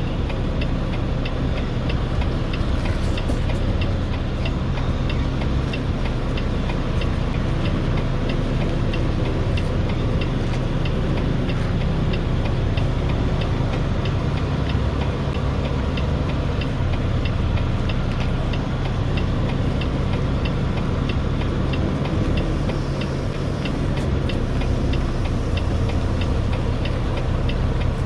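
Semi truck's diesel engine running steadily at low speed while backing into a dock, heard from the cab, with a regular ticking over it.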